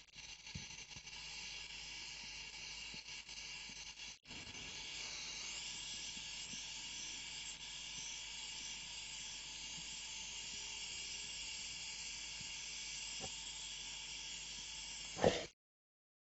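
Gas brazing torch flame hissing steadily while heating a copper refrigeration tube joint to re-braze a leak. It drops out briefly about four seconds in, and stops suddenly with a short pop near the end.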